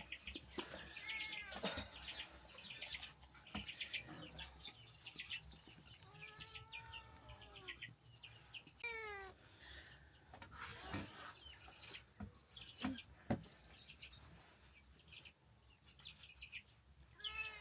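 Birds chirping repeatedly, with a few drawn-out, arching animal calls: a short one about a second in and a longer one around six seconds in.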